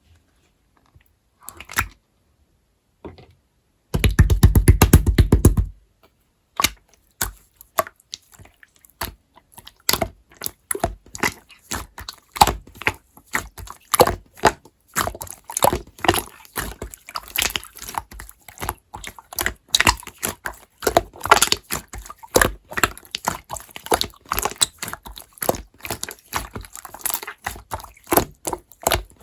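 Slime being squished and poked by hand, making irregular wet clicks and pops. About four seconds in there is a loud, fast rattle of clicks lasting under two seconds, then the popping goes on steadily and gets busier.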